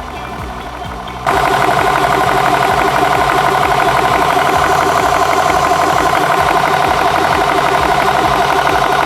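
Nomad Nano portable high-pressure air compressor: its cooling fan runs alone, then about a second in the compressor starts with a sudden jump in loudness and runs steadily with a fast, even pulsing, pumping air into the Ascent air rifle's cylinder.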